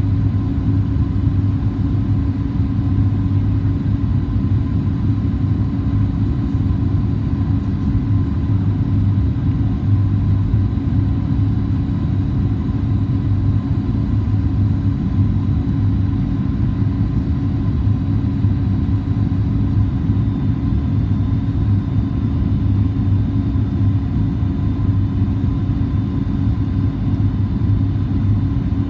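Steady cabin drone of a Boeing 737 MAX 8-200 in flight: its CFM LEAP-1B turbofans and the airflow heard inside the cabin as a deep, even rumble with a faint high whine.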